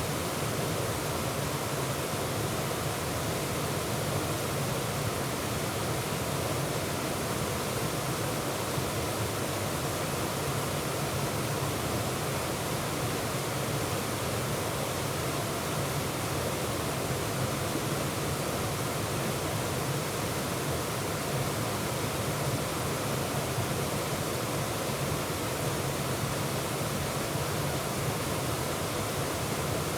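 Waterfall: water pouring over rock ledges into a plunge pool, a steady, unbroken rush.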